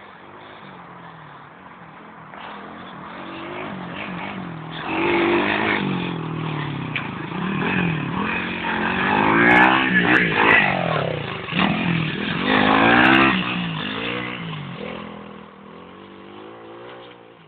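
110cc four-stroke pit bike engine revving up and down as it is ridden, growing louder to a peak around the middle and then fading away.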